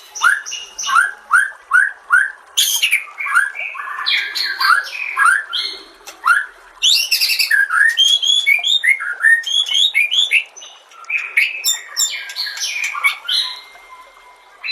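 White-rumped shama (murai batu) singing a fast, varied song of quick whistled sweeps and chattering phrases, with short breaks between bursts and a pause near the end.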